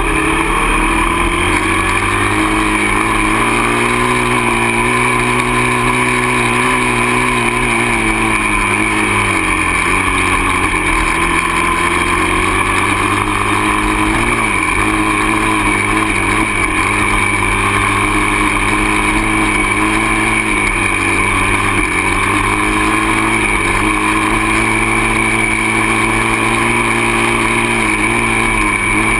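Dirt bike engine running while being ridden: its pitch climbs over the first couple of seconds, holds, drops back around ten seconds in, and dips briefly a few more times.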